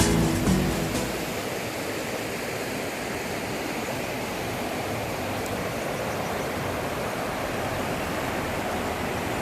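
Steady rush of flowing water, with music fading out about a second in.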